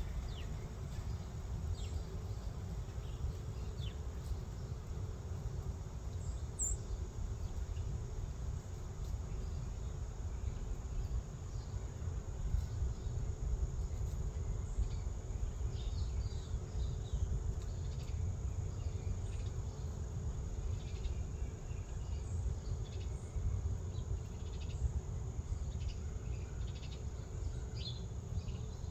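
Steady high-pitched insect trill over a low rumble, with scattered short faint chirps.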